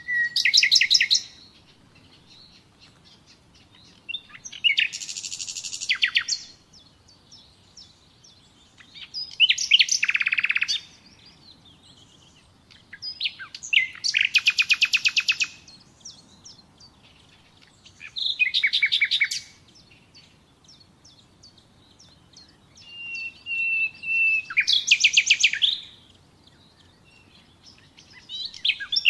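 Nightingale singing: short phrases of rapid repeated notes, some opening with a single held whistle, sung about every four to five seconds with quiet pauses between.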